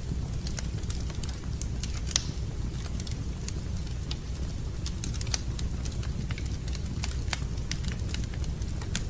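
Wood fire burning in a fireplace, crackling with frequent irregular sharp pops over a steady low rumble; two louder pops, about two seconds in and past the middle.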